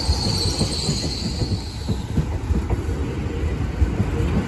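Great Western Railway Class 800 train's carriages rolling past, wheels clattering over the rails with a steady rumble. A high-pitched squeal fades out about two seconds in.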